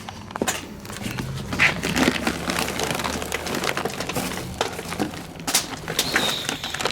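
Packaging being handled and crumpled as a new turbocharger is unpacked: irregular crinkling, crackling and small knocks, over a faint steady low hum.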